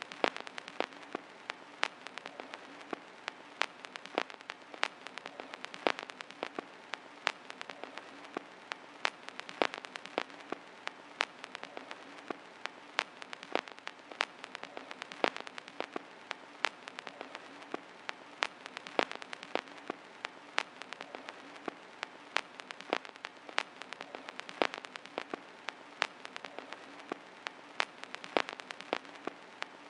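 Rain: a steady hiss with sharp drop ticks scattered irregularly through it, several a second.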